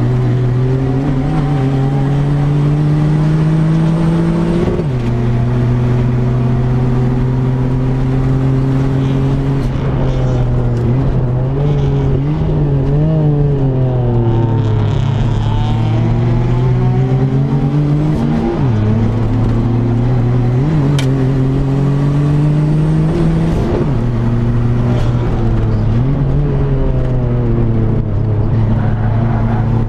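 Engine of a turbocharged Daihatsu Mira L500 race car, heard from inside the cabin under hard acceleration. The pitch climbs through each gear and drops suddenly at several gear changes, and it eases off and picks up again in the middle.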